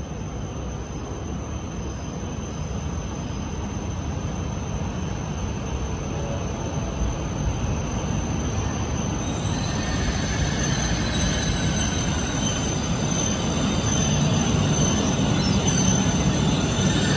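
Shinkansen train running into the station, its rumble growing steadily louder. Brake and wheel squeal rises from about halfway through as it slows.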